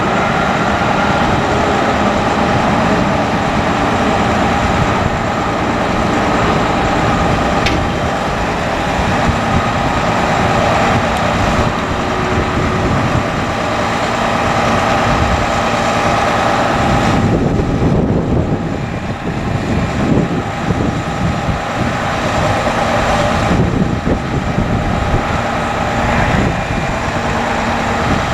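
2008 Hino 338 truck's diesel engine running steadily, with a steady high whine over it.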